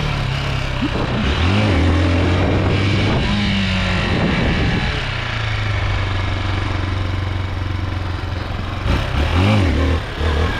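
Chinese 250 dirt bike engine running, with a few short revs rising and falling. The owner says the bike lacks power and bogs when he opens it up.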